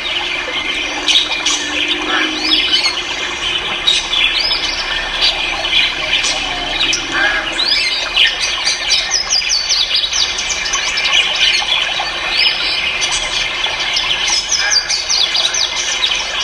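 Many cage birds for sale, chirping and squawking together in a dense, unbroken din of short overlapping calls.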